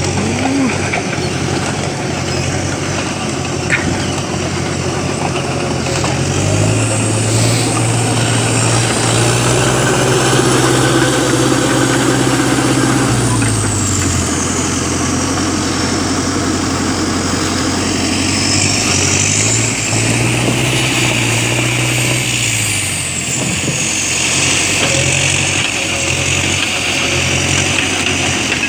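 Skidder's diesel engine working while rolling logs onto a landing deck: it revs up about six seconds in, holds for about seven seconds and drops back, then revs up again briefly near the middle of the second half.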